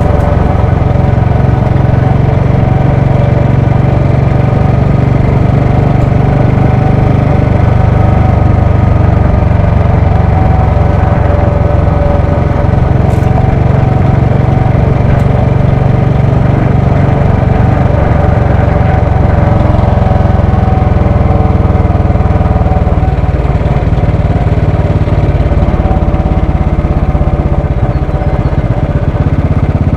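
Royal Enfield Bullet 500's single-cylinder engine running steadily at an even, low-pitched beat, heard close.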